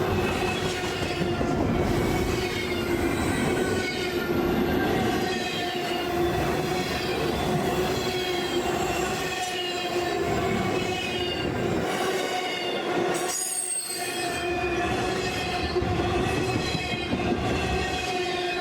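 Freight train rolling past with its wheels squealing continuously, wavering high-pitched squeals over a steady rumble of the cars.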